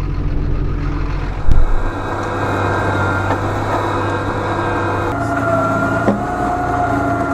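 Farm tractor engine running steadily, with a single sharp knock about a second and a half in. A steady whine comes in about five seconds in and steps up in pitch near the end.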